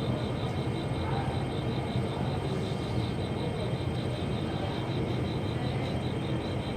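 Nuriro electric multiple-unit train running as it pulls out of a station, a steady low rumble. An insect chirps over it in an even, high pulse about four or five times a second.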